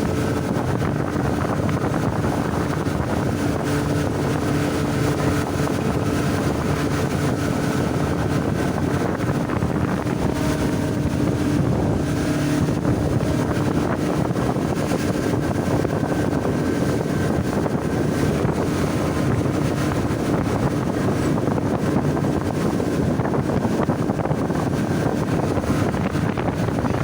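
Motorboat engine running steadily at speed, with rushing wind and water noise and wind buffeting the microphone. The engine's tone fades into the wind and water noise about halfway through.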